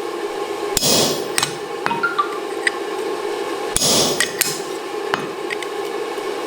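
Hammer striking an oval punch into hot mild steel to punch the eye of a tong jaw: two heavy blows about three seconds apart with lighter metallic taps between, over a steady hum.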